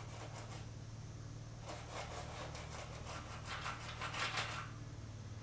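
A quick run of short rubbing or scrubbing strokes on a car's sheet-metal panel, from about two seconds in until a little before the end. A steady low hum runs underneath.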